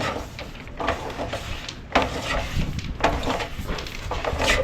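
Service wire being pulled through conduit: irregular scraping and rustling with several sharp knocks, the clearest about two seconds in.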